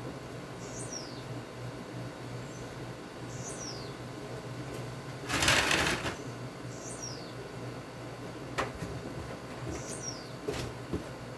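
A bird repeats a short, high chirp that falls in pitch, four times about three seconds apart. About halfway through comes a brief loud rush of noise, the loudest sound, and two sharp clicks follow near the end, over a steady low hum.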